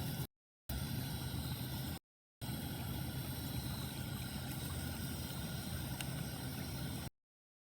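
Rainwater rushing and gurgling through a culvert drain, a steady rushing noise with a low rumble. It cuts out abruptly to dead silence twice early on and again near the end.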